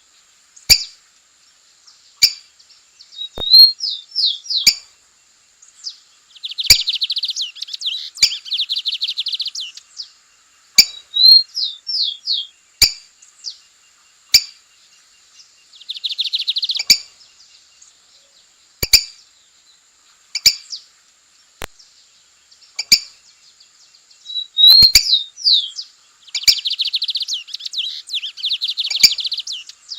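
Lined seedeater (bigodinho) singing: each song opens with a few short, falling whistled notes and runs into a long, fast rattling trill, repeated three times. Sharp clicks sound between the phrases.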